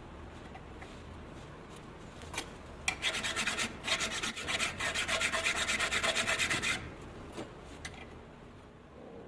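Hand file rasping back and forth on a dovetail workpiece, starting about three seconds in and stopping about four seconds later, with a few light clicks before and after.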